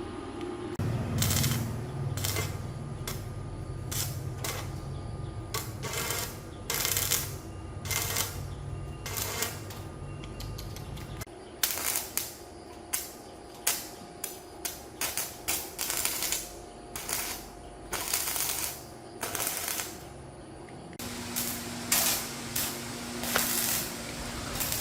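Many short bursts of hissing, like compressed air or spray being triggered on and off at irregular spacing. A low motor hum runs underneath for the first ten seconds or so, and a steady low tone comes in about 21 seconds in.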